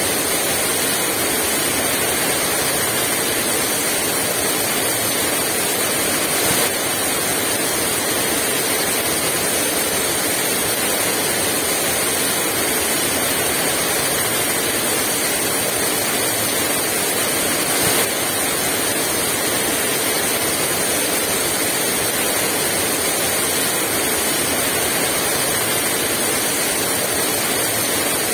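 Heavy rain falling steadily in a dense, even hiss, with a couple of slightly louder moments about a quarter of the way in and past the middle.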